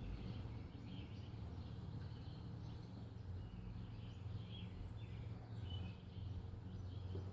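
Low, steady hum of a honeybee swarm, faint, with birds chirping now and then over it.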